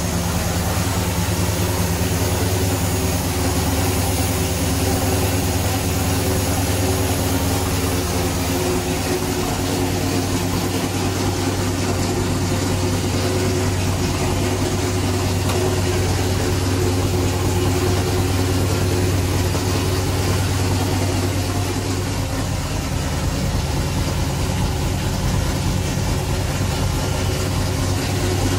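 1977 Chevy Camaro's V8 engine idling steadily, warming up just after a cold start following a couple of months of sitting.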